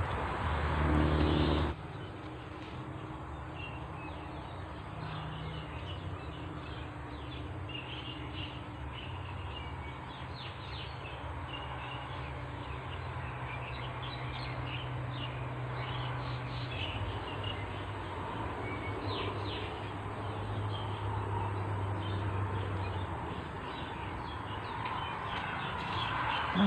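Wild birds chirping in short, scattered calls over a low, steady hum.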